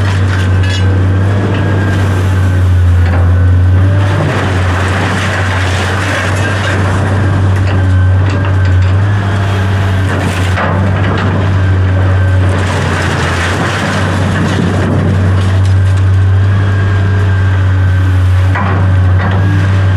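A large engine running steadily with a strong, constant low hum, with scattered knocks and rattles over it.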